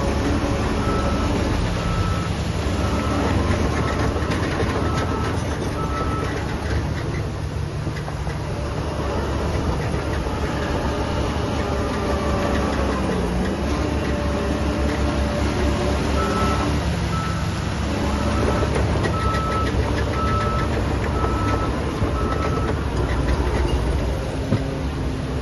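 Heavy diesel construction machinery running steadily, with a machine's reversing alarm beeping in a steady series during the first few seconds and again for about six seconds in the second half.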